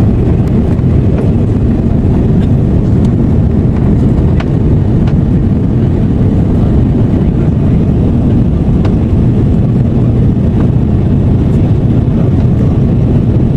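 Loud, steady in-cabin rumble of an Airbus A330-343 in flight, the jet noise of its Rolls-Royce engines and rushing air, with a few faint ticks.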